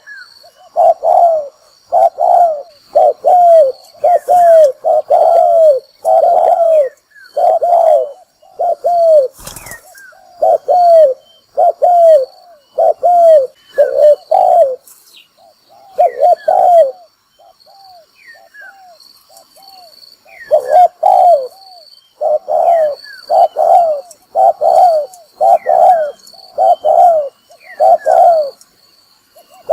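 Spotted dove cooing in a long run of short, low, down-curving coos, about one to two a second, going softer for a few seconds past the middle before picking up again. It is the excited decoy call used to provoke wild male doves toward a trap. A sharp click sounds once about nine seconds in, with faint high chirping behind.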